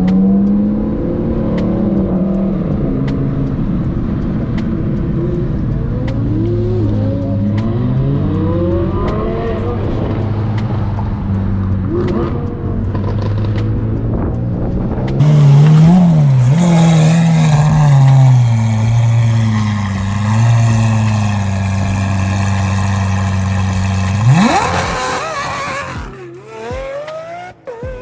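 Supercar engines running and revving through the gears, the pitch rising and falling, with a louder stretch of hard acceleration in the second half that ends in one sharp rising rev before it drops away near the end.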